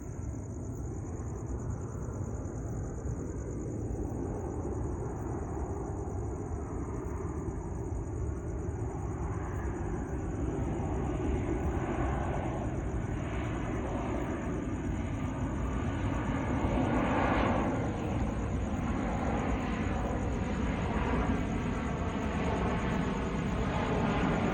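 Jet noise from a Boeing 737-700's CFM56-7B turbofan engines as the airliner approaches: a steady rumbling roar that slowly grows louder and brighter, with a slow wavering sweep in its tone.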